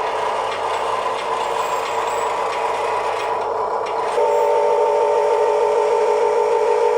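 Electric motors and metal gearboxes of a Huina 1582 RC dump truck whining steadily. About four seconds in the whine changes pitch and grows louder and cleaner, as a different function takes over.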